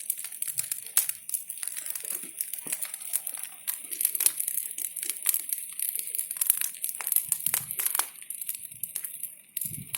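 Brush pile of branches burning in a large bonfire, crackling and popping in quick irregular snaps over a steady hiss.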